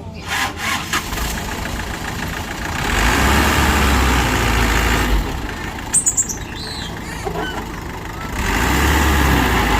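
Heavy diesel engine of an earthmoving machine running, swelling louder twice as it takes load, with a few short high-pitched squeaks about six seconds in.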